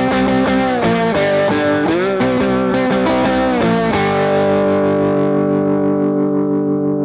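Epiphone Les Paul electric guitar played with distortion: a lead phrase of bent notes, then about four seconds in a held note that rings on and slowly fades.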